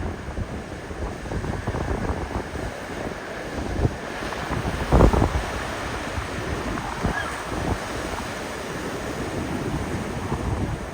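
Storm surf breaking on the beach in a steady wash, with strong gusty wind buffeting the microphone; the loudest gust comes about five seconds in.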